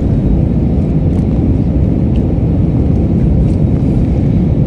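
Airliner cabin noise on final approach: a steady, loud, low rush of jet engines and airflow heard from a window seat near the wing.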